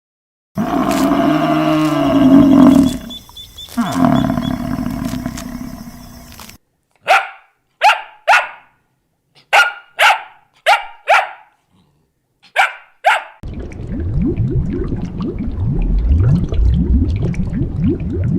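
A series of about nine short, sharp dog barks in uneven groups, between a long low pitched animal call at the start and a low rough growl-like rumble near the end.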